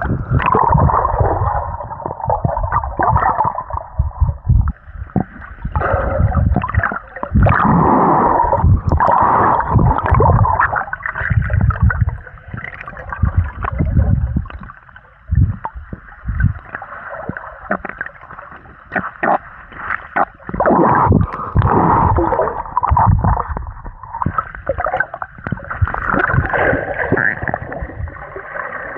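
Muffled water sloshing and gurgling around a swimmer in a lake, coming in uneven surges.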